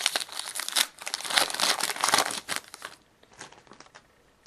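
Hockey card pack wrapper being torn open and crinkled, a dense crackle for about three seconds, then a few lighter rustles and clicks as the cards are handled.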